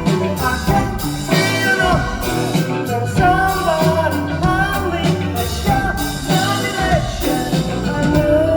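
A live band playing a rock song: drums, bass and guitar under a voice singing a gliding melody without clear words.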